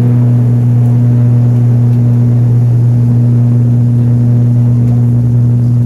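Aircraft engine running with a steady, loud low drone at a constant pitch.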